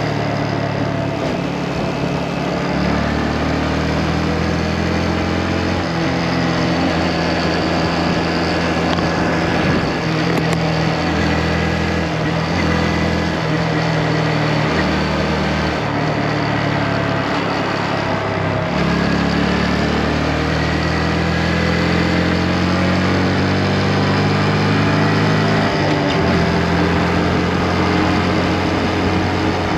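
Motorcycle engine running while riding, its pitch stepping and gliding up and down several times as the revs change.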